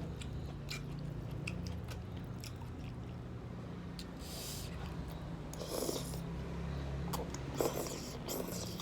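Close-up eating sounds of spicy jajangmyeon noodles being chewed: soft wet mouth clicks, with a few short louder noises about four, six and eight seconds in, over a steady low hum.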